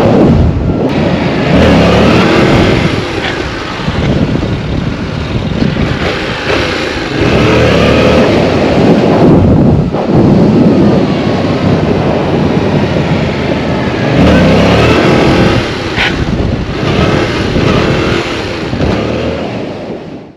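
Yamaha R7 sport bike's parallel-twin engine revving hard and easing off, again and again, with the revs swelling and dropping every few seconds.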